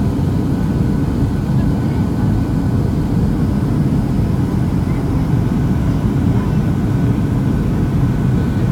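Steady low rumble of cabin noise inside a Boeing 737-700 in flight on approach: the CFM56-7B turbofans and the airflow over the fuselage, with a few faint steady whines above it.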